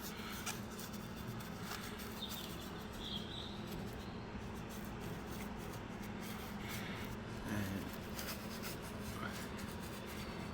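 Paintbrush scrubbing and dabbing thick underbody coating onto car bodywork: a run of short scratchy strokes over a steady low hum.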